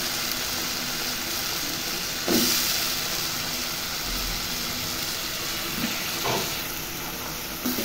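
Oily spice masala frying and bubbling in a pot with flat beans just added: a steady sizzle, with a brief louder surge about two seconds in.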